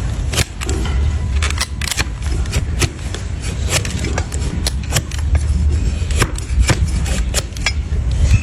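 Trimming tool cutting into a donkey's hoof: a run of sharp, irregular cracks and snaps, about two a second, over a steady low rumble.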